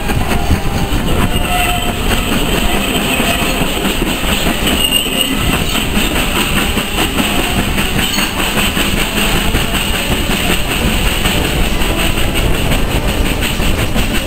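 Steam-hauled train running along the line, heard from an open carriage window, its wheels clicking over the rail joints under a steady rumble.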